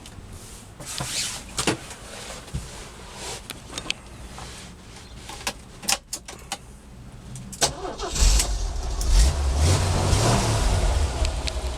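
A few scattered clicks and knocks, then about eight seconds in the 1984 Jeep CJ8 Scrambler's engine starts. It revs up briefly and settles into a steady idle.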